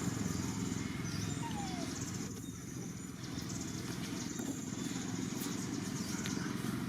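Outdoor ambience: a steady low rumble under a high, shrill buzzing that comes and goes in stretches, with one short falling call about a second and a half in.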